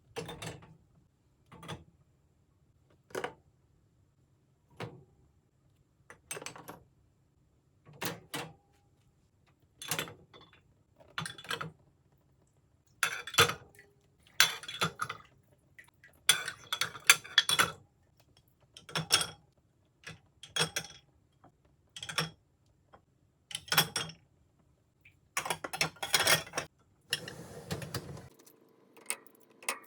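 Dishes and cutlery clinking and clattering as a kitchen is tidied, in short bursts a second or two apart, busier around the middle and near the end.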